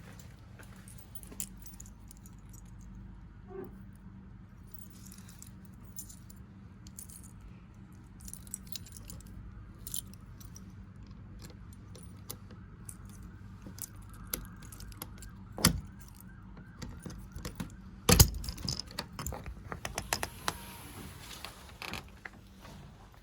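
A bunch of keys jangling and clicking, with two sharp clacks past the middle, the second the loudest, over a steady low hum.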